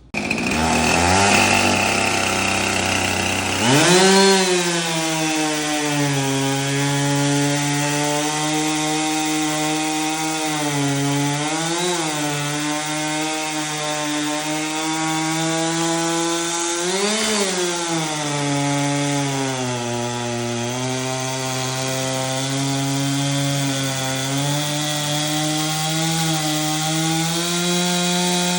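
Husqvarna 576 two-stroke chainsaw with a 28-inch bar cutting through a large wooden post at full throttle. Its engine pitch sags and holds steady under the load of the cut, with brief rises in pitch about four seconds in and again around two-thirds of the way through.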